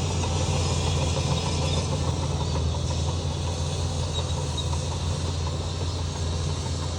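Heavy diesel earthmoving machinery running steadily, a constant low engine drone.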